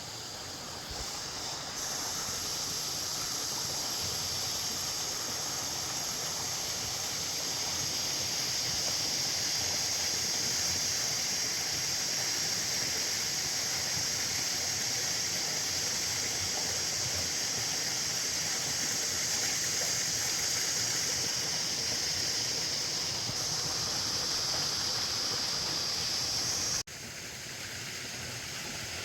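Fast-flowing river water rushing steadily. Near the end it cuts off abruptly into a slightly quieter rush of water.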